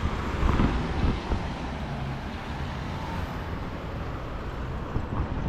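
Street traffic: cars and other vehicles driving past on a town road, a steady rumble of engines and tyres.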